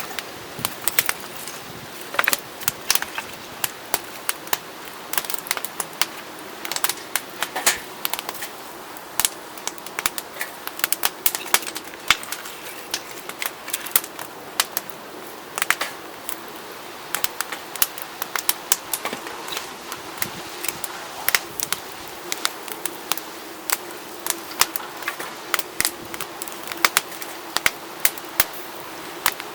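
Wood fire crackling in a small fire pit: irregular sharp pops and snaps, several a second, over a steady hiss.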